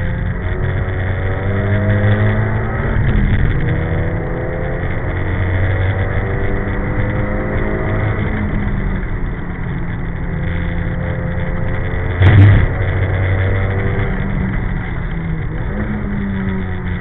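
Nissan Silvia S14's engine heard from inside the car on track, its pitch climbing under acceleration and dropping back several times as the driver changes gear or lifts. A short, loud thump comes about twelve seconds in.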